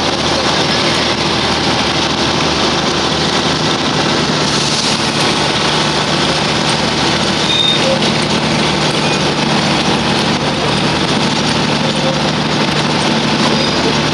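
Darjeeling Himalayan Railway narrow-gauge toy train running along its track, heard from on board: a loud, steady running noise with a low hum.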